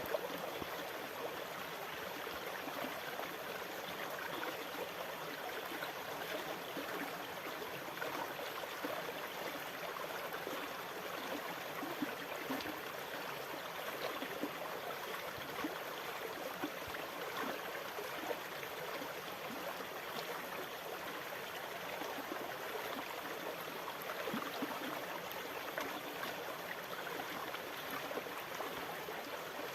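Steady rush of moving water with a trickling, gurgling texture, holding an even level with no separate wave breaks.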